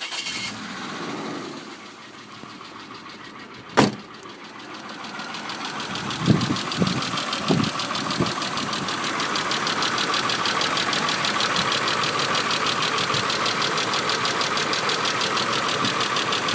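1995 Isuzu Rodeo 3.2 L V6 engine starting up, with a few uneven firings about six to eight seconds in, then settling into an idle with a fast, even knocking. The owner hears it as a knocking noise from the engine; its cause is unknown. A sharp click comes about four seconds in.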